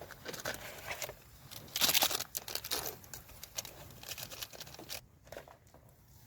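Crinkling, rustling handling noise made of many short crackles. The densest, loudest cluster comes about two seconds in, then it thins out and fades near the end.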